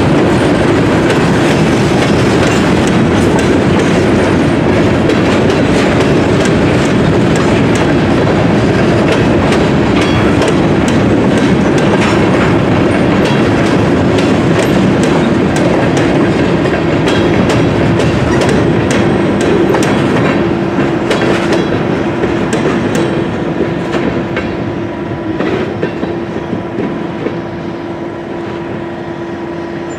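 Freight train of covered hopper cars rolling past: steady wheel-on-rail noise with clickety-clack over the rail joints. It eases off in the last third as the end of the train goes by, leaving a steady hum.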